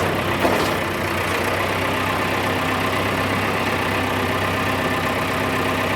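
John Deere 401-C tractor's diesel engine running steadily, with a brief clunk about half a second in.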